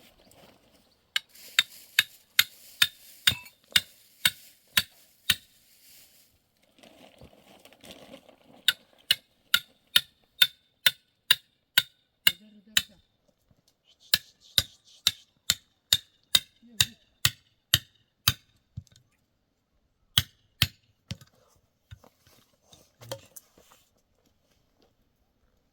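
Repeated hammer blows, about two a second, in three runs with short pauses between them and a few last strikes near the end. Each blow carries a short metallic ring.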